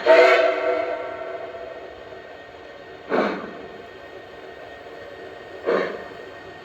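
Onboard sound system of a Lionel Legacy Southern Atlantic model steam locomotive pulling out: the steam whistle blows once and fades over about two seconds, then two steam chuffs about two and a half seconds apart as the engine starts to move.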